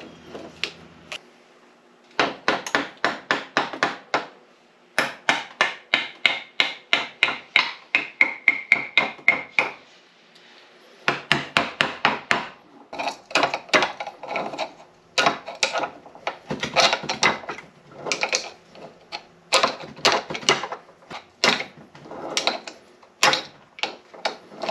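A hammer striking metal parts of an NP205 transfer case in quick runs of blows, about three to four a second, in several bursts with short pauses between them. Some blows leave a metallic ring. This is the sound of knocking a locking part loose during the teardown.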